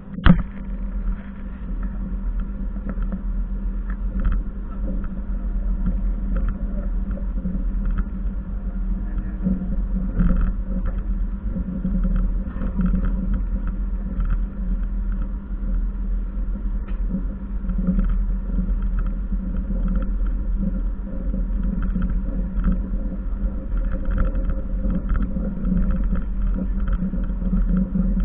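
Passenger train running, a steady low rumble with faint clicks and rattles throughout. A single sharp knock at the very start.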